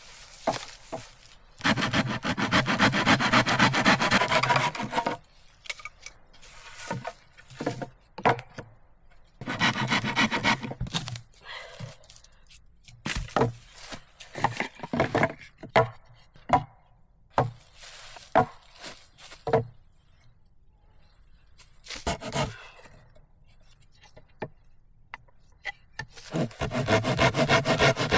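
Wood being sawn by hand in three bouts of rapid back-and-forth strokes. Scattered knocks and short scrapes of wood come between the bouts.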